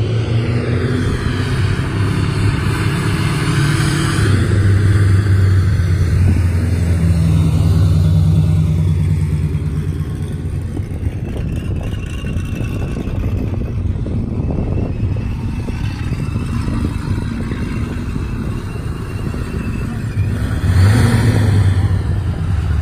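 Car engine running with a deep, continuous low rumble that swells under throttle, loudest about four to nine seconds in and again near the end.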